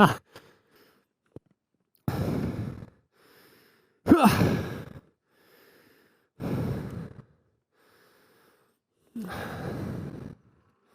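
A man breathing out in heavy sighs, four times, a couple of seconds apart, with quiet in between.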